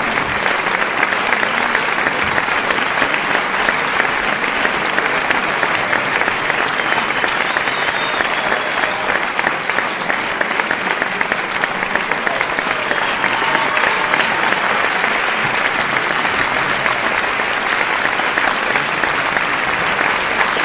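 Crowd applauding: dense, continuous clapping that holds steady throughout.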